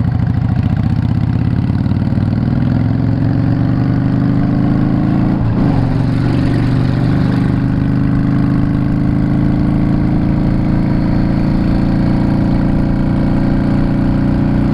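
Yamaha Drag Star 650's air-cooled V-twin engine running steadily. Its pitch climbs slightly over the first few seconds, then holds, with a brief break about five and a half seconds in.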